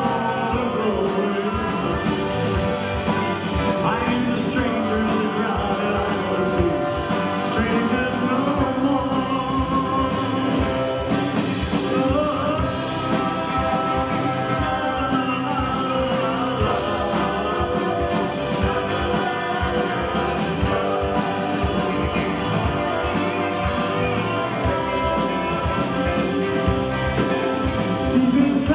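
Live rock-and-roll band playing, with singing over the instruments.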